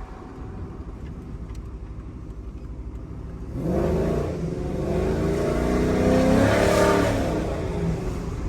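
Cammed 5.3-litre V8 in a GMC Sierra, with long-tube headers and an equal-length exhaust, running at light throttle. About three and a half seconds in it gets on the throttle and the exhaust note climbs in pitch for about three seconds, then falls away as the throttle is lifted near the end.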